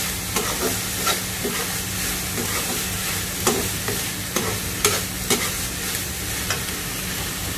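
Winged bean stir-fry sizzling in oil in a pan, stirred with a spatula that scrapes and taps against the pan every second or so.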